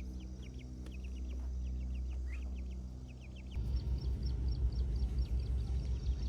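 Rapid, high bird chirps over a low steady hum. About halfway through, a low rumbling noise comes in, with faint regular high ticks above it.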